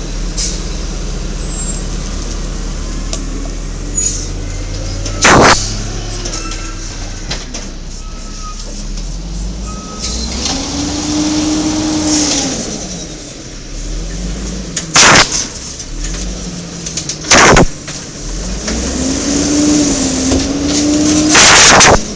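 Garbage truck (1994 LNG WhiteGMC with an Amrep Octo automated side-loader) running steadily, its hydraulic whine rising and falling twice as the arm cycles. Four loud sudden bursts break through, the last one longer, about a second.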